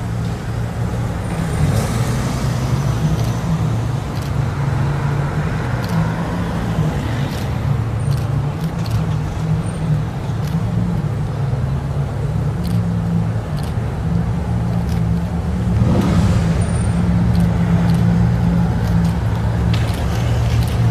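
Bugatti Veyron's quad-turbocharged W16 engine running at low revs as the car crawls forward, a steady low drone. Faint clicks are scattered through it.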